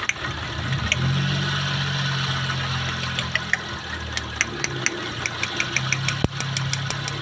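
Car engine idling with a steady low hum and a sharp, regular ticking about three times a second.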